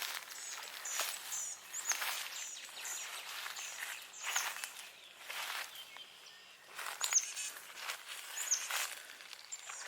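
Footsteps crunching through dry brush and undergrowth, about one step a second, with a bird repeating short high chirps.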